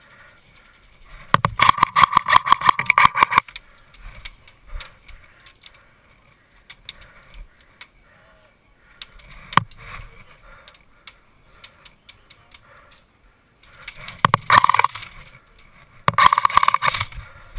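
Airsoft rifle firing close by in rapid full-auto bursts of clicks with a mechanical whine: one burst of about two seconds near the start, a single sharp shot midway, and two shorter bursts near the end.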